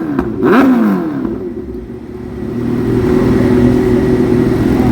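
Motorcycle engine revved in two quick throttle blips near the start, each a sharp rise and fall in pitch; the sound dies down about two seconds in, then the engine holds a steady running note.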